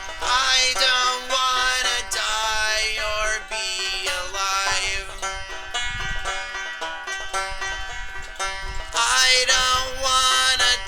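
Instrumental passage of a folk punk song: an acoustic plucked string instrument strumming chords, with no singing.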